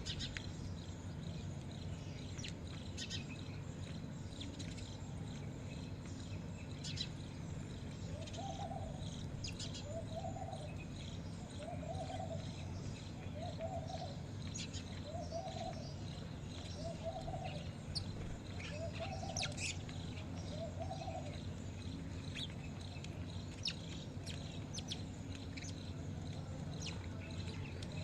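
Birds chirping with short, scattered high notes, while a low hooting call repeats seven times at about one per second in the middle of the stretch, over a steady low hum.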